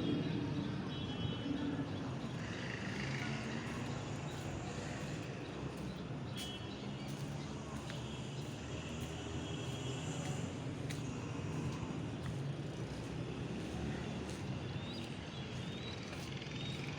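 Steady hum of motor traffic with engines running, plus a few faint higher tones and brief clicks.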